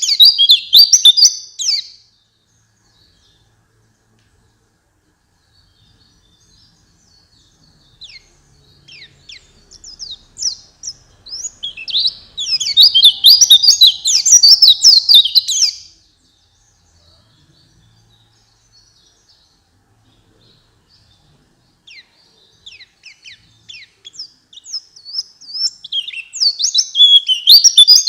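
White-eye (pleci) song: high, rapid twittering phrases. A loud burst ends about two seconds in. After a pause, scattered soft chirps build into a loud run of a few seconds near the middle, and the same pattern comes again towards the end.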